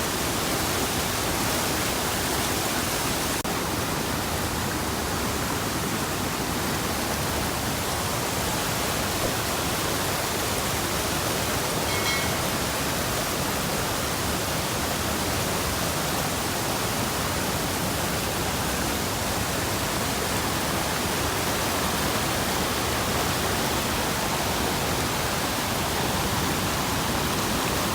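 Waterfall: a steady, unbroken rush of falling water. A faint short high note is heard about halfway through.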